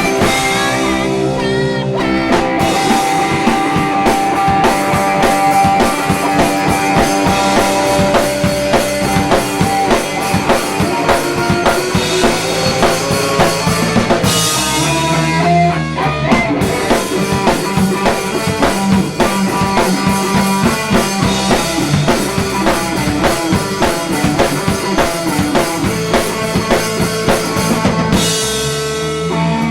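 Live indie-pop band playing, with electric guitar and a drum kit keeping a steady beat.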